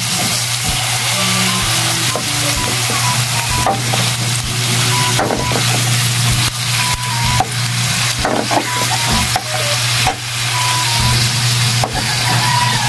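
Ground meat and garlic sizzling in oil in a wide metal wok, with a metal spatula and a knife scraping and clanking against the pan at irregular intervals as the meat is broken up and stirred.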